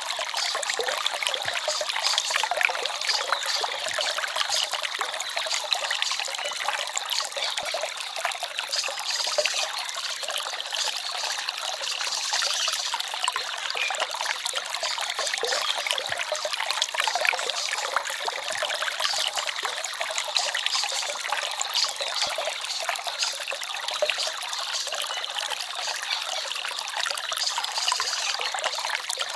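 Small forest stream trickling and babbling steadily over stones, a bright splashy water sound with little low rumble.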